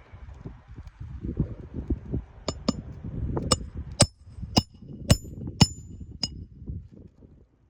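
A hammer striking metal: about eight sharp blows, each with a bright metallic ring, spaced roughly half a second apart through the middle of the stretch. Low rustling noise runs underneath.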